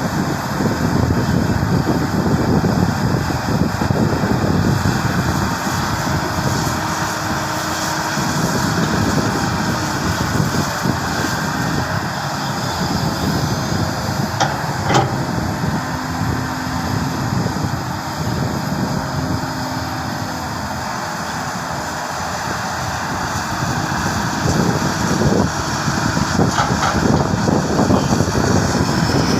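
Diesel engine of heavy earthmoving machinery running steadily under work, with one sharp click about halfway through.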